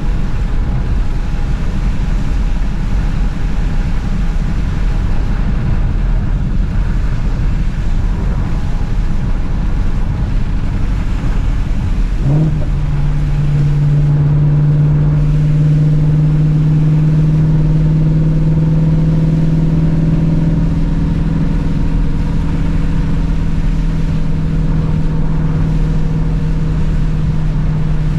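Shelby GT350's flat-plane-crank V8 on the move, under a steady rush of road noise. About twelve seconds in, the engine note rises briefly and then settles into a strong, steady drone held at constant revs.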